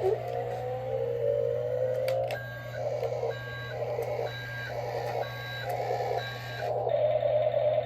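Toy remote-control forklift: its small electric motor whines with a slowly rising pitch for about two seconds, then its reversing beeper sounds about six beeps, a little under a second apart, while it backs up. Near the end a steady even tone takes over.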